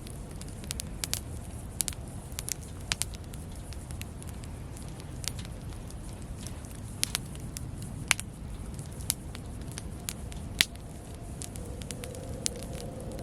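Wood campfire burning, with irregular sharp crackles and pops over a steady low rumble of the flames. A faint steady hum comes in near the end.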